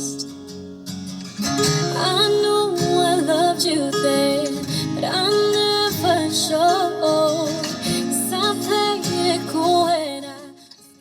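Acoustic guitar song with a female singing voice, played back through a car's custom Pioneer Carrozzeria speaker system with subwoofer, fading out near the end.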